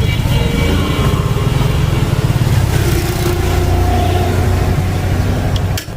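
Small motorcycle engine running steadily at idle, with a fast, even pulse, briefly dropping just before the end.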